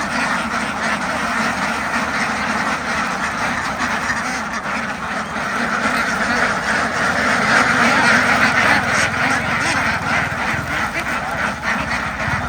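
A large flock of domestic ducks quacking together in a dense, unbroken din that swells louder partway through.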